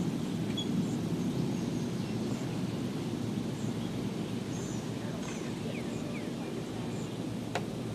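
Outdoor ambience: a steady low rumble with faint, short bird chirps scattered through it, and a single click near the end.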